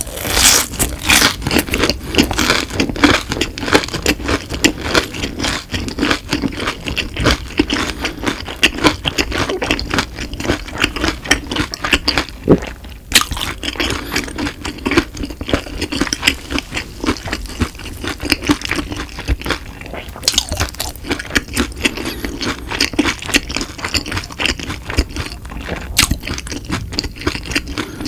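Close-miked chewing of a breaded, fried cheese stick: a dense run of small crisp crunches and crackles, with one sharper crunch about halfway through.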